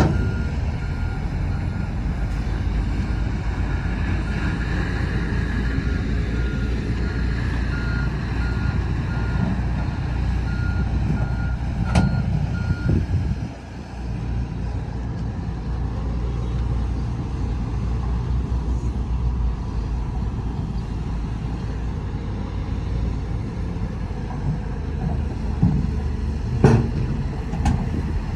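Heavy diesel engines of a bulldozer and dump trucks running steadily, with a reversing alarm beeping about once a second for roughly the first thirteen seconds. Sharp metallic knocks about twelve seconds in and twice near the end.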